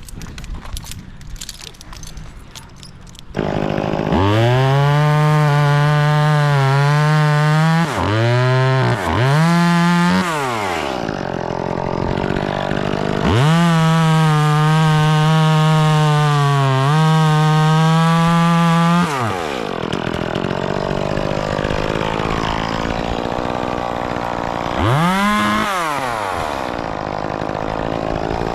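Scattered clicks and rustling, then a chainsaw revs up to full throttle about three seconds in and holds there for several seconds. It gives two quick blips, drops to idle, then runs at full throttle again for about six seconds before falling back to idle, with one short blip near the end.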